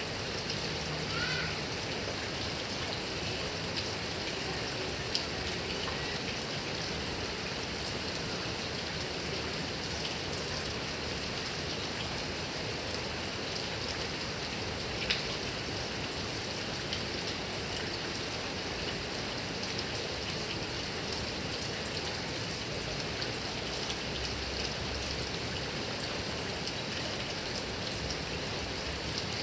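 Heavy rain falling steadily on grass and trees, a continuous hiss with scattered sharper drip ticks.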